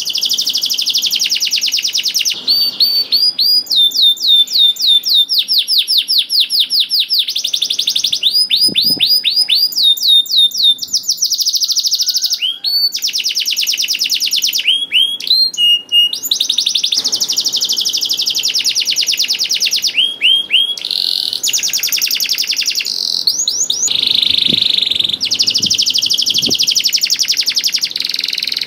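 Canary singing a long, loud song made of fast trills, each a rapid run of repeated high sweeping notes lasting a second or several, changing from one trill to the next with only brief pauses.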